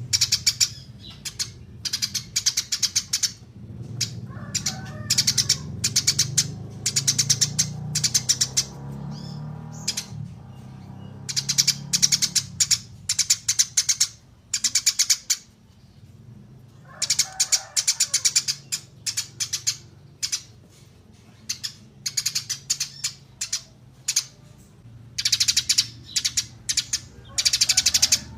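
Small songbirds chirping in rapid, high-pitched trilled phrases, one after another with short gaps, over a low steady hum.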